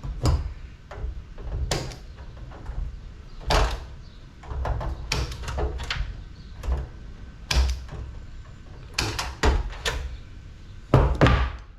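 Irregular knocks and clunks of scrap metal being handled and set down on a workbench, about a dozen, the loudest near the end, with low handling rumble between them.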